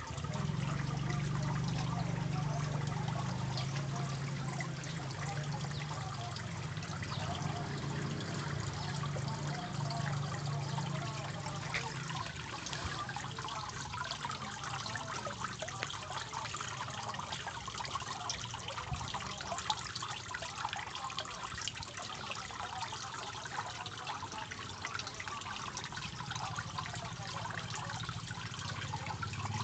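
Water trickling and splashing steadily from a homemade fish-tank fountain, with a low hum that is strong for the first half, fades, and comes back near the end.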